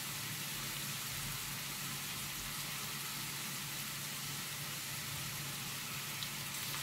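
Ground beef sizzling steadily in a frying pan over a gas burner.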